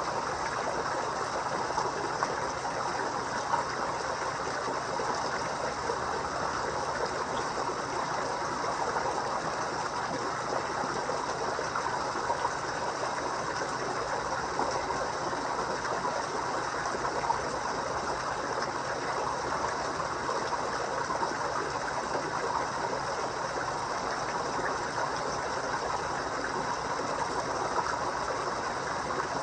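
Pond water trickling and splashing steadily, an even unbroken rush like a small waterfall or fountain running into a koi pond.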